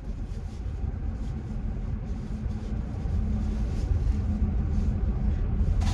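Car-cabin road and engine noise while driving: a steady low rumble that grows a little louder about halfway through.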